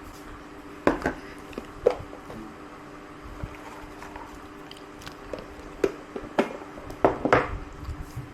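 Eating sounds: chewing, with a few short sharp taps and clinks of dishes, the busiest cluster near the end, over a faint steady hum.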